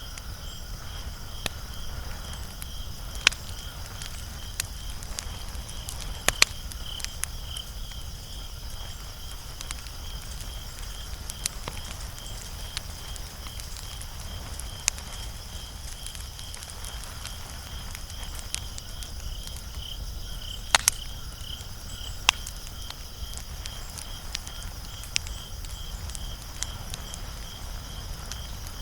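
Wood fire crackling: sparse sharp pops and snaps, a few of them louder, over a steady evenly pulsing high chirp in the background.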